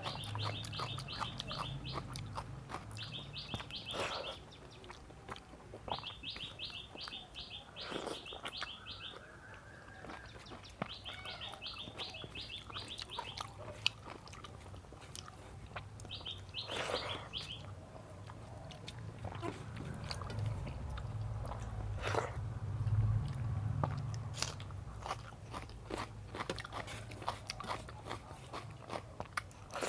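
A person chewing and biting food with crunchy, clicking mouth sounds. A bird chirps in quick runs of rapid notes five times in the first half.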